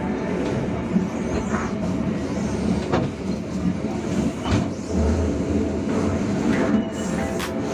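Local Bandung Raya passenger train running, heard from inside the carriage: a steady rumble with scattered clicks and knocks.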